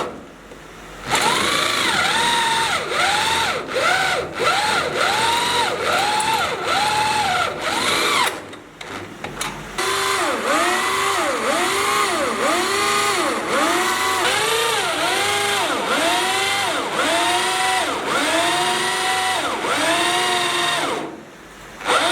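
Power drill boring into steel, its whine rising and falling in repeated surges, about three every two seconds. It stops briefly near the start, around the middle and near the end.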